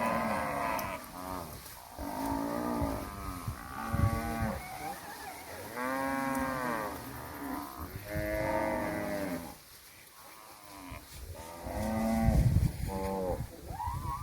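Herd of cattle mooing, one long moo after another from several animals, some overlapping, with a short lull a little past two-thirds of the way through.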